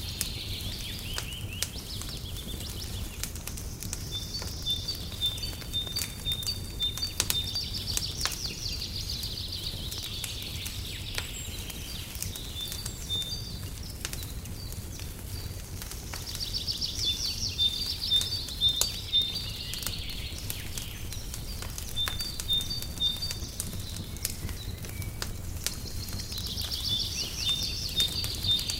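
Wood fire crackling in a fireplace, with scattered pops over a low steady rumble. Songbirds sing high trilling phrases every few seconds over it.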